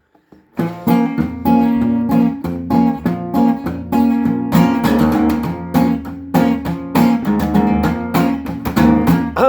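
Acoustic guitar strummed in a steady rhythm, starting about half a second in, as an instrumental intro.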